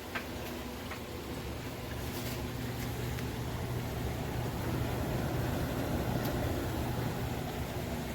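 ROVSUN 850 W portable front-load tumble dryer running: a steady motor hum with the stainless drum turning, and a small click just after the start.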